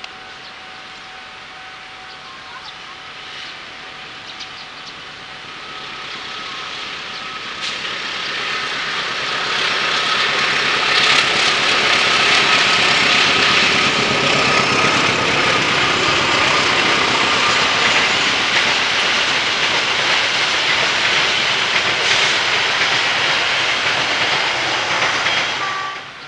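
A train approaching and passing close by, growing louder over several seconds into a loud, steady rolling noise of wheels on rail, which cuts off suddenly near the end.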